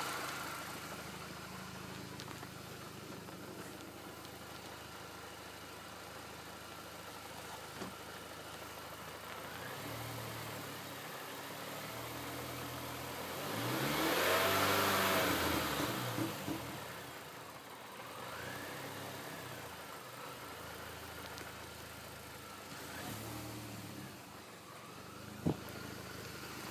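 Mini Cooper R53 John Cooper Works supercharged 1.6-litre four-cylinder engine idling with a knocking noise that the owner suspects comes from worn bottom-end bearings. About halfway through the revs rise and fall once, and a sharp click is heard near the end.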